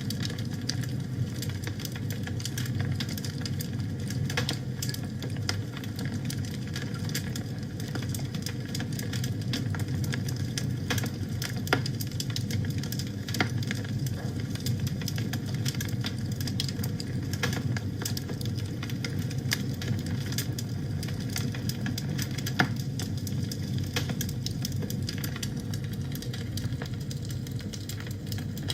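Wood fire burning in a fireplace: a steady low rumble of flames under frequent irregular crackles and pops, a few of them louder.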